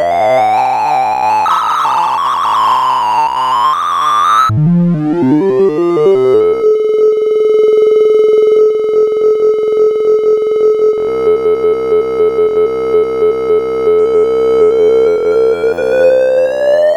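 Synthesized electronic tones from a sorting-algorithm sonification, each tone's pitch following the value being accessed. Dense warbling bleeps break off about four and a half seconds in, give way to a brief fall in pitch and then a steady buzzing tone, and near the end a smooth rising sweep follows, typical of the check pass that runs through the sorted array in order.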